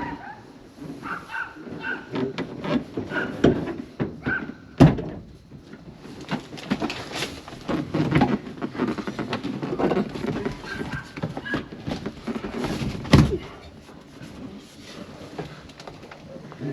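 Rustling, scraping and clattering as a car's back seat is worked into place, with two sharp knocks, one about five seconds in and one about thirteen seconds in.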